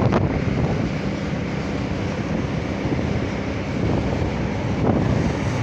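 Ride noise from a moving motorcycle: wind rushing over the microphone, with the engine and road noise running steadily underneath.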